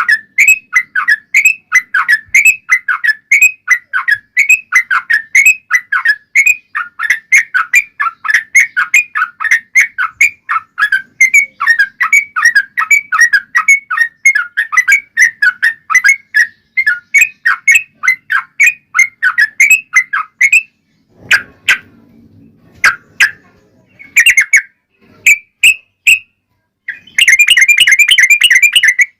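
Yellow-vented bulbul (trucuk) singing long runs of fast, chattering whistled notes, several a second, for about twenty seconds. It breaks off into a pause with a few clicks, gives a few scattered notes, then another dense fast run near the end. This is a lure song meant to draw answering calls from other trucuk birds.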